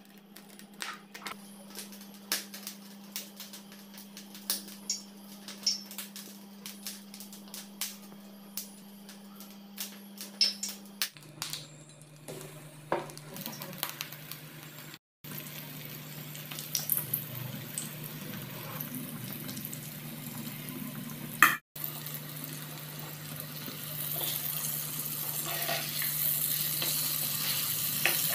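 Cooking oil poured into a nonstick frying pan, with scattered clicks and crackles as it heats, then batter-coated wax gourd slices frying in the hot oil: a steady sizzle that grows louder in the last few seconds. A steady low hum runs underneath.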